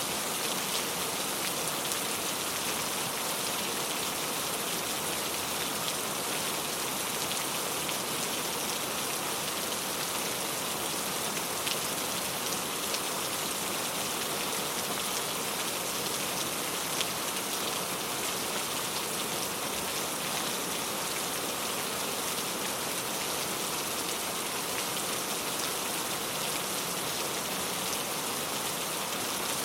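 Steady rain falling, an even hiss with many small drop ticks and no change in strength.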